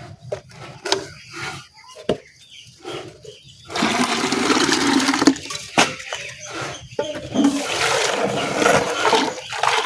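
Water being poured into a container, in two long pours: the first starts about four seconds in and the second a little past the middle, after a few light knocks and clicks at the start.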